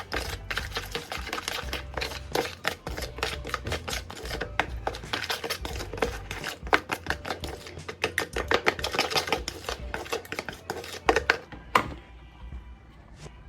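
A utensil stirring a thick spice paste in a bowl, with quick, irregular clicks and scrapes against the bowl that stop about twelve seconds in.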